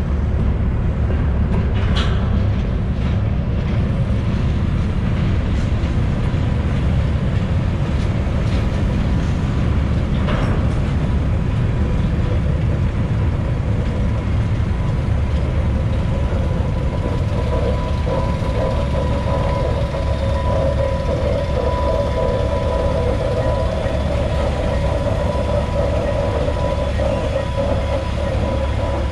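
Freight train of covered hopper cars with a switcher locomotive at the end rolling past a road crossing: a steady low rumble of wheels on rail with a few knocks. A steady high whine grows louder about two-thirds of the way through.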